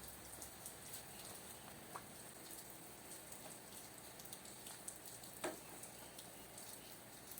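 Light rain falling, a faint steady patter dotted with small drips, with a louder single drip about five and a half seconds in.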